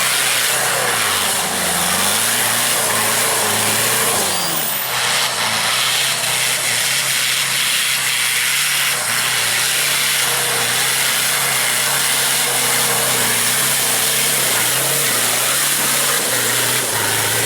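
Off-road 4x4 engine revving hard under load on a steep loose-stone climb, its pitch stepping up and down, with a constant hiss over it.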